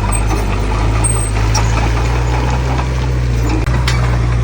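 Heavy construction-machine diesel engine running steadily with a deep, even hum, and one brief knock about three and a half seconds in.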